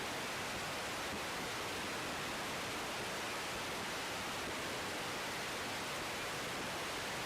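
Steady, even hiss of the air traffic control radio feed between transmissions.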